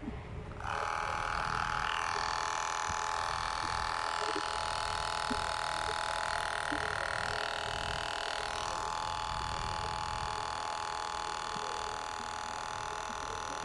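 Electric hair trimmer switched on about half a second in and running with a steady buzz, its tone shifting slightly near the end; the repaired trimmer is running from a power bank.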